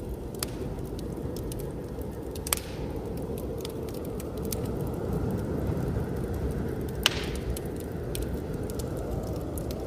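Wood fire crackling in a fireplace, with many small ticks and a few loud sharp pops, over a steady low rush of blizzard wind.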